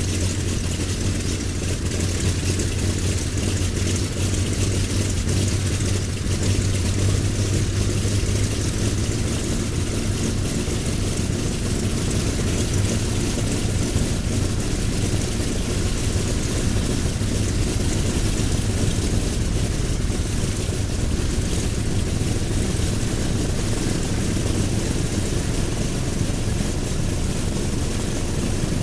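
Douglas A-26B Invader's right-hand Pratt & Whitney R-2800 radial engine running steadily on the ground with its propeller turning, firing on all cylinders. There is a deep steady hum, a little stronger in the first several seconds.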